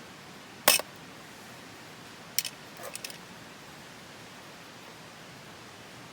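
A loud sharp click less than a second in, then a few fainter clicks and knocks about two and three seconds in, over a steady hiss.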